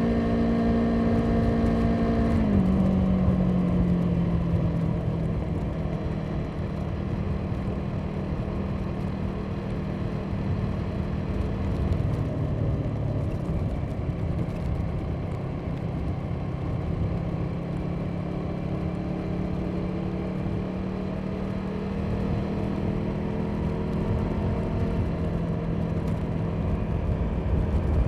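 Motorcycle engine running at a steady road speed, with wind and road noise. The engine note drops in pitch about two seconds in, then holds steady with a slight further dip around the middle.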